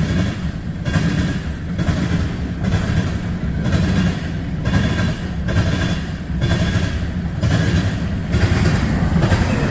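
CSX mixed freight train's cars, many of them tank cars, rolling past, heard from inside a vehicle cab as a steady low rumble. A regular clack recurs about once or twice a second.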